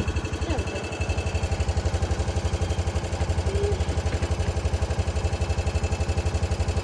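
An engine idling, with a rapid, even low pulsing that holds steady.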